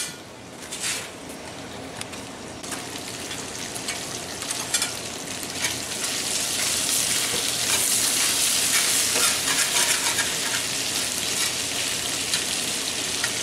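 Bacon and home-fry potatoes sizzling in a large hand-forged frying pan, with a spatula scraping and stirring through them now and then. The sizzle gets louder about halfway through.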